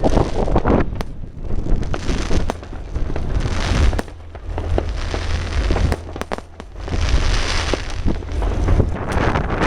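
Firecrackers and fireworks going off, many sharp bangs and cracks at irregular intervals, over heavy wind rumble on the microphone.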